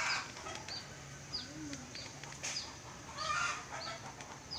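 Chickens clucking, with a small bird repeating a short, falling chirp about every two-thirds of a second.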